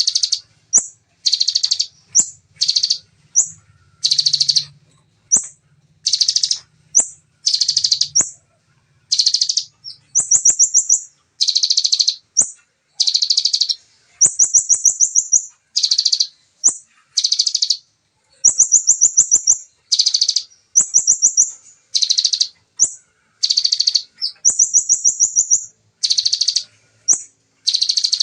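Bar-winged prinia (ciblek) singing its fast 'zepper' song: short, dense chattering phrases come one to two a second, many ending in a rapid, very high trill.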